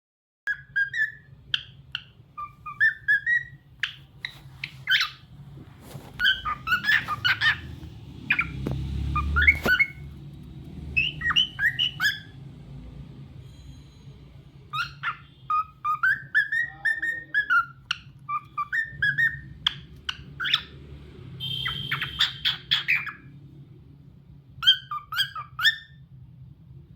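Lutino cockatiel whistling and chirping in phrases of short rising and falling notes, with a few pauses between bursts.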